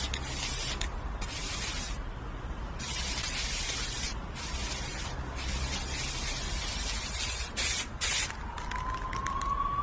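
Repeated bursts of hissing noise, each about half a second to a second long, switching on and off over a steady low hum, with a faint tone rising slowly near the end.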